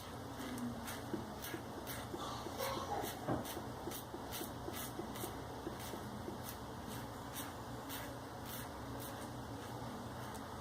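Maggard V3A safety razor with a Shark Super Chrome blade scraping through lathered facial stubble in repeated short strokes.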